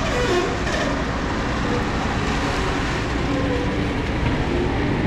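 Steady rumble of a heavy vehicle, with rattling over it.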